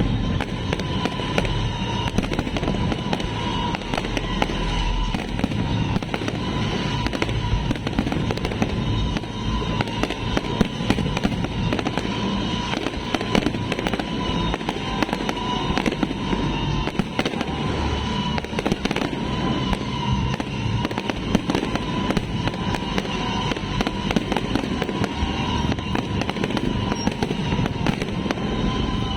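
Fireworks display going off continuously, a rapid run of bangs and crackles with no pause, with music playing underneath.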